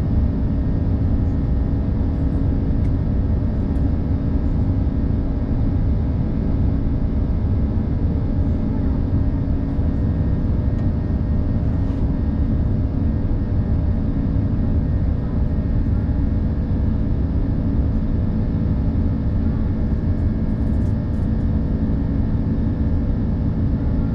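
Steady cabin drone inside an Airbus A330-300 airliner: a deep, even rumble of the jet engines and airflow, with a few faint ticks.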